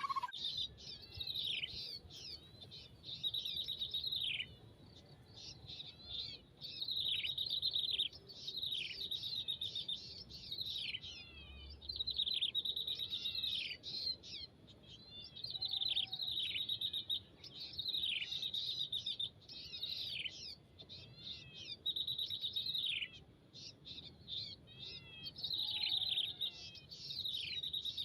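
Small songbird calling in bursts of rapid, high chirps that slide downward, each burst lasting a second or two with short pauses between, repeated again and again.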